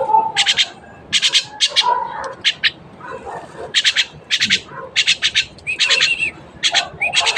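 Pet bird squawking over and over: a run of short, harsh calls, with a couple of brief whistled notes mixed in about six seconds in.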